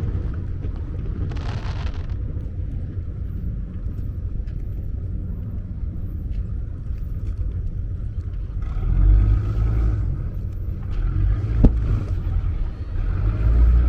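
Fireworks display heard from the water: a continuous low rumble of booms, a brief hiss about a second and a half in, louder rumbling from about nine seconds, and a single sharp bang near the end.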